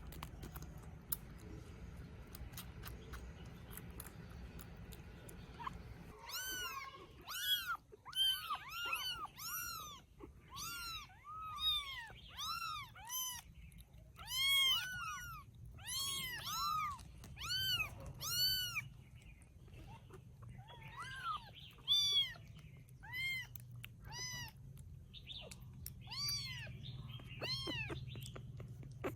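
Baby kittens mewing: many short, high-pitched cries, one or two a second and sometimes overlapping, starting about six seconds in.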